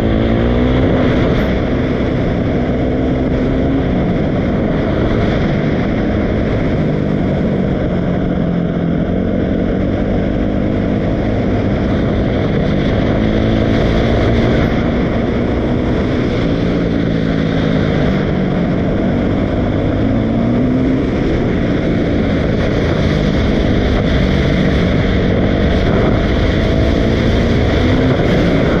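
Dirt bike engine running under way, its pitch rising and falling again and again as it revs up and drops back.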